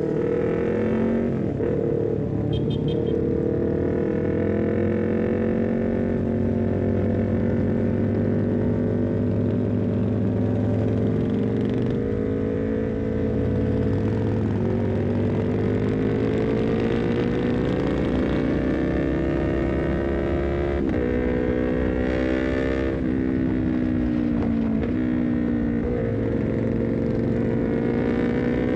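Honda CBR250RR parallel-twin engine running through an R9 full-system header and short Leovince GP Corsa carbon silencer while riding. The pitch climbs and falls as it pulls through the revs, with several sharp drops in pitch in the later part.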